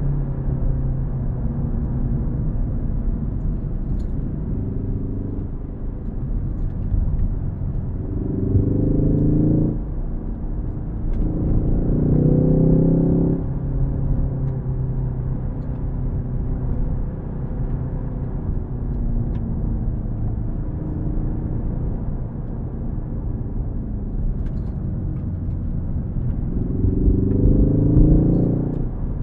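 Ford Focus ST engine driving along under varying throttle, with three surges of hard acceleration where the engine note rises steeply and gets louder: about eight seconds in, again just after a brief drop near ten seconds, and near the end. Between them the engine runs steadily at part throttle over a constant low road rumble.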